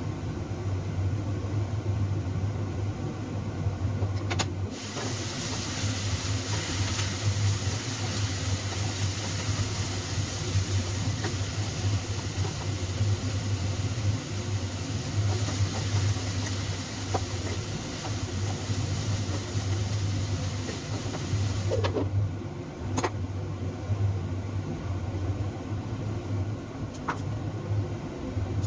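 Kitchen cooking noise: a steady low hum, with a loud hiss that starts a few seconds in and stops suddenly after about seventeen seconds, and a few sharp clicks.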